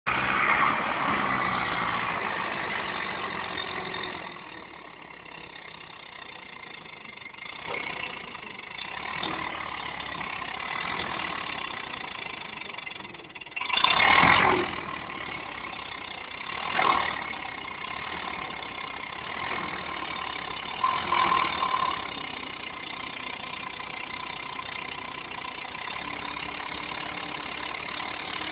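Tractor engine running steadily, with brief louder swells about halfway through and twice more later.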